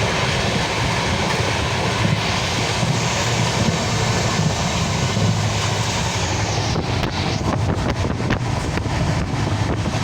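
Steady rumble and rush of a moving road vehicle, with wind buffeting the microphone. About seven seconds in, the hiss thins and uneven gusts of wind buffeting come and go.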